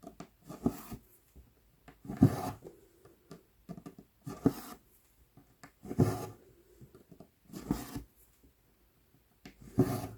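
Cross-stitch needle and embroidery floss drawn through 11-count Aida cloth: a short rasping pull about every second or two, seven or so in all.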